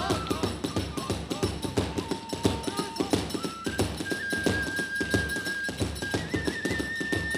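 Kagura hayashi ensemble playing fast: drums and hand cymbals beat a rapid, driving rhythm under a bamboo flute holding long high notes that step up in pitch a few times.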